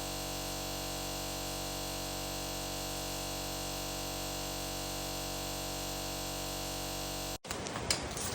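A steady, unchanging hum made of many held tones, which cuts off abruptly about seven seconds in.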